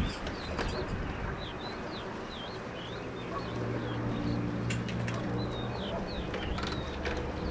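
Small birds chirping over and over in short, high, quickly rising and falling notes. A low steady engine drone comes in about three and a half seconds in.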